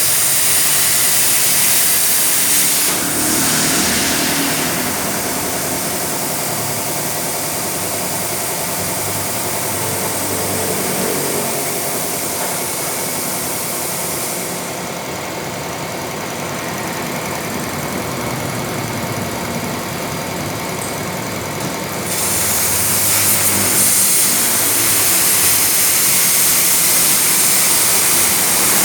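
CNC cutting machine working on sheet metal for air ducts, giving a loud continuous hiss over a machine drone. The high hiss drops away for several seconds around the middle, then comes back.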